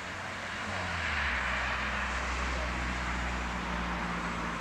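Electric train approaching in the distance: a steady rumble and hiss that swells about a second in, over a low hum.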